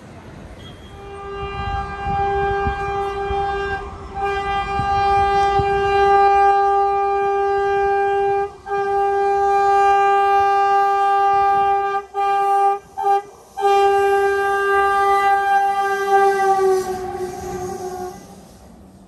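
Indian Railways locomotive horn sounding in long steady blasts with short gaps, and two quick toots near the middle, over the low rumble of a train. The horn drops slightly in pitch as it fades near the end.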